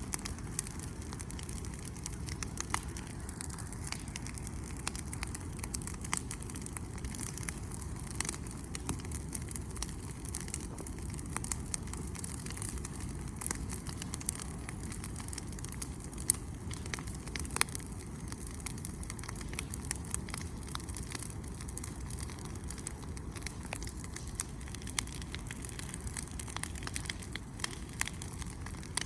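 Wood bonfire crackling, with many irregular sharp pops and snaps over a steady low rumble.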